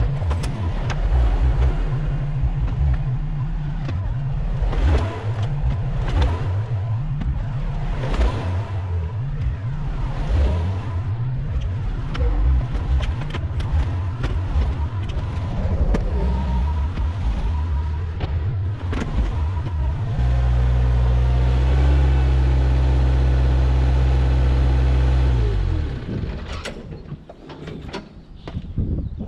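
Bobcat 753 skid-steer loader's diesel engine working, its revs rising and falling under changing load. It is then held at steady revs for about five seconds before dying away near the end.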